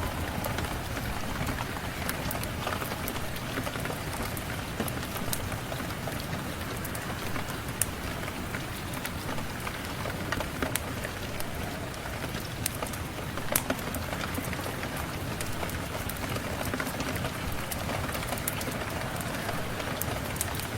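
Steady rain falling, with scattered sharp clicks through it.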